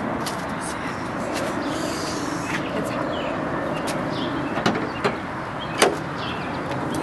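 Steady garage background noise with scattered sharp clicks and knocks, the loudest a single knock near the end.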